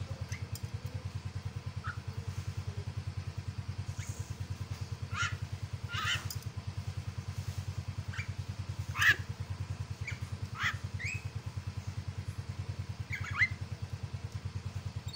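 Javan myna giving several short, sharp calls spaced a second or more apart, the loudest about nine seconds in, over a steady low pulsing hum.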